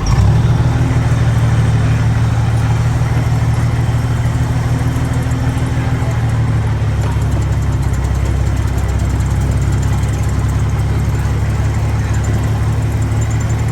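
Heavy diesel engine of earthmoving machinery running steadily at close range, with a strong low hum.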